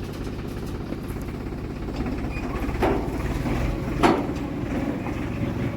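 JCB 3DX backhoe loader's diesel engine running steadily, with two sharp knocks about three and four seconds in.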